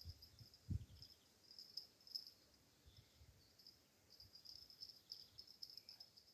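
Faint chirping of crickets in short repeated trills, with one low thump just under a second in.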